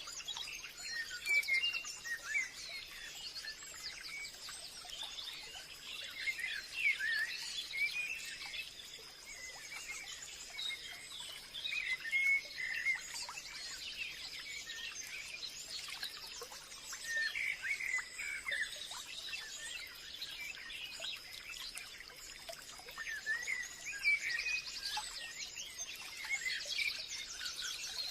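Forest birdsong: many birds chirping and calling over one another, with a steady high-pitched drone beneath them.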